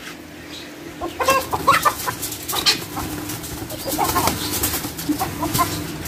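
Birds clucking and squawking, with wings flapping, as they are grabbed by hand inside a wire cage. The calls begin about a second in and come in short bursts.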